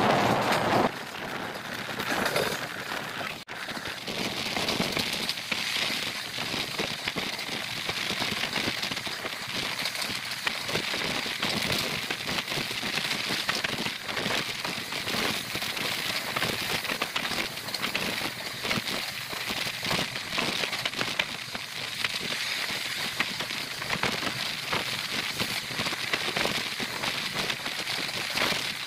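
Train running at speed, heard from an open coach doorway: a steady rushing, crackling noise of wheels on the rails and air going past. A louder wind rush on the microphone drops away about a second in.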